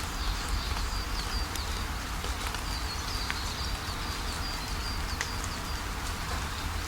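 Steady rainfall with scattered drops ticking sharply, over a low rumble. A bird chirps repeatedly in a high, quick series that stops about two-thirds of the way through.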